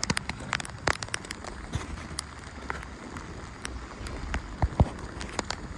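Rain falling, with many irregular drops ticking and tapping sharply on nearby surfaces over a low, steady patter.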